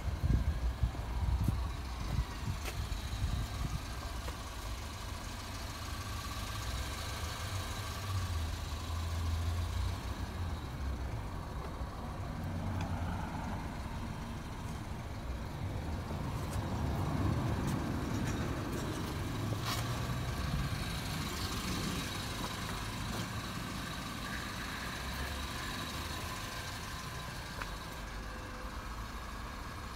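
A car engine idling steadily, with a few sharp clicks or knocks.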